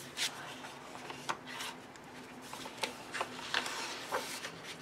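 Paper rustling and soft taps as a paperback coloring book's cover flaps and pages are handled, in short scattered bursts.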